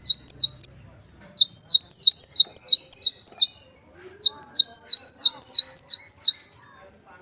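Cinereous tit (glatik batu) singing: loud, clear phrases of rapidly repeated sharp, falling high notes, about five a second, each phrase lasting about two seconds with short pauses between. One phrase ends just after the start, two full phrases follow, and another begins at the very end.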